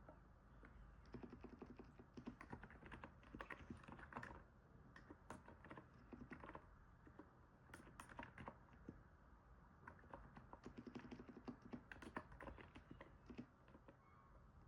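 Typing on a NiZ 68 Pro capacitive keyboard: soft keystrokes likened to stepping on snow, coming in fast irregular runs with brief pauses.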